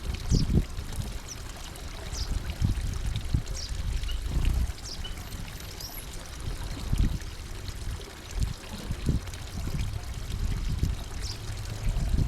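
Small birds at a feeder give short, thin, high chirps about once a second, over an uneven low rumble and a rushing, water-like noise.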